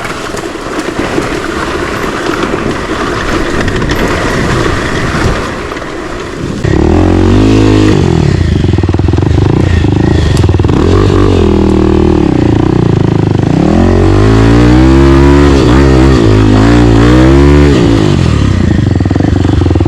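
Single-cylinder four-stroke trail motorcycle engine running, quieter and rougher at first. About a third of the way in it is opened up, and its note rises and falls again and again with the throttle, loudest in the later part.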